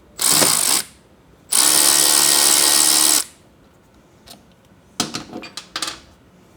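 Cordless power tool driving a 12 mm socket: a short spin, then a steady run of under two seconds at an even motor pitch, loosening the brake-line banjo bolt on the ABS unit. A few light clicks and rattles of metal parts follow near the end.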